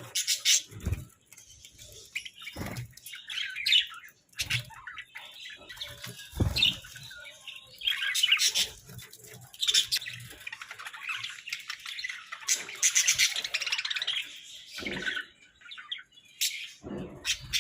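Pet Hagoromo budgerigars chattering and chirping in quick, busy runs of warbles and squawks, with a few short low thumps in the first half.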